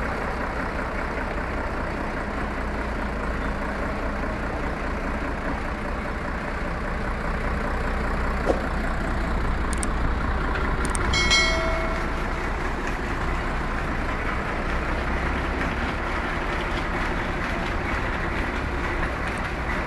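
Diesel engine of a modified Mahindra 575 tractor running steadily with a deep rumble. A brief high-pitched tone sounds a little past halfway.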